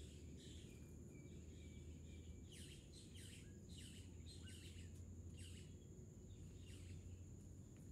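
Small birds chirping faintly: a string of quick, downward-sliding chirps, about two a second, over a steady high-pitched hiss.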